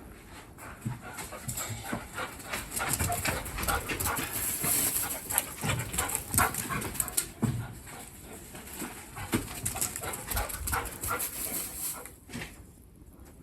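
Kishu dog panting, with many short clicks and knocks and some low thuds mixed in; it quietens near the end.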